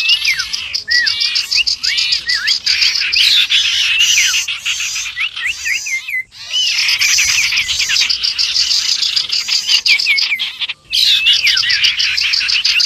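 Bird-lure recording of common iora (cipow) calls mixed with other small songbirds: a dense, continuous chatter of fast chirps and short whistled glides. It drops out twice, briefly, about six and eleven seconds in.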